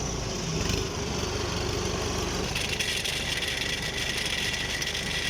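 Yanmar DC105X rice combine harvester running with a steady engine rumble and rattling; a thin, steady high whine joins in about halfway through.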